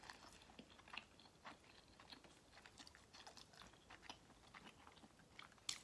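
A person chewing food: faint, irregular little crunches and mouth clicks.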